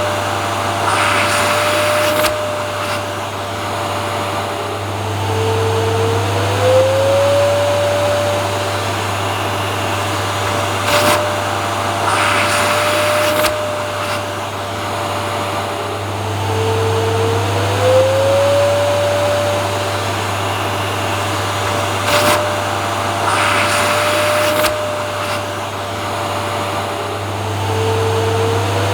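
Vacuum cleaner running steadily with a low hum and a motor whine. The whine drops in pitch and climbs back about every eleven seconds, with short bursts of hiss in between, in a repeating pattern.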